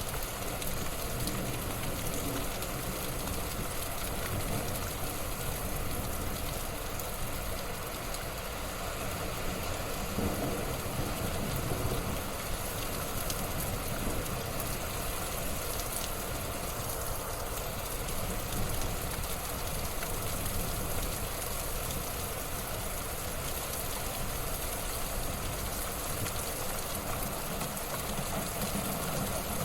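Wood fire burning in a fireplace: a steady crackling hiss with scattered faint pops.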